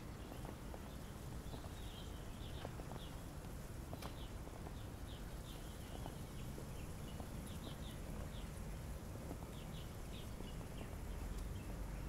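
Small birds chirping in short, scattered high twitters over a steady low rumble of outdoor ambience.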